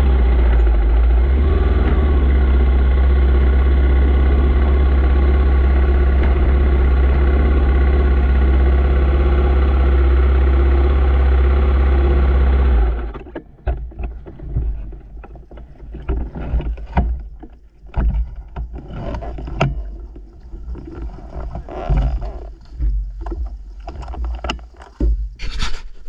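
Dirt bike engine idling steadily, then shut off suddenly about halfway through. After it stops, only scattered clicks, scuffs and rustles remain.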